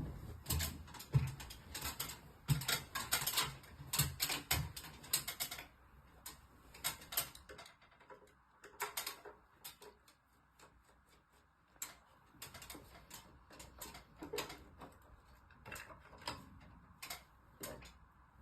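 Rapid, irregular clicking and tapping of small hard objects being handled, dense for about the first six seconds and then sparser, with scattered clicks later on.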